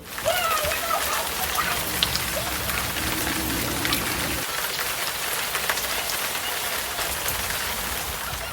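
Steady heavy rain, a dense even hiss of drops that starts suddenly and keeps up throughout. A faint wavering squeaky tone sounds over it in the first second or so.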